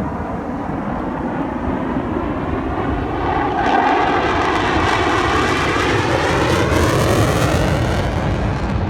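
Panavia Tornado's twin RB199 turbofan jets making a pass: the jet noise builds and is loudest from about three and a half seconds in, with a sweeping whoosh that shifts in pitch as the jet goes by. The high hiss drops away suddenly near the end.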